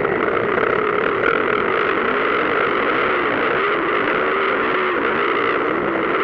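Several motocross bike engines running together, their overlapping notes rising and falling over and over as the riders open and close the throttle.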